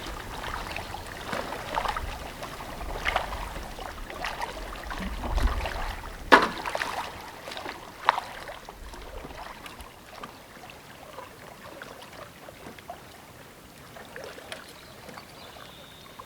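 Packraft paddle blades dipping and pulling through lake water, with splashes and drips about once a second. There are two sharp knocks, a little after 6 s and around 8 s, likely the paddle against the raft. The strokes then stop and only faint trickling water remains.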